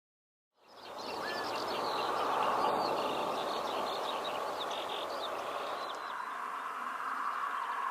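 Outdoor recording of lapwings: faint, scattered bird calls over a steady background noise, fading in about half a second in.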